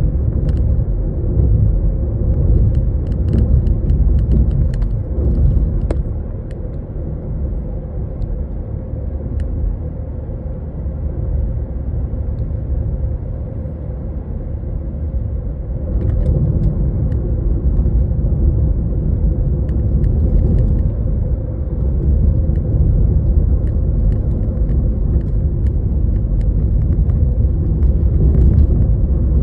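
A Toyota Estima minivan on the move: steady road and engine rumble, easing off for several seconds in the middle and building again, with a few faint ticks.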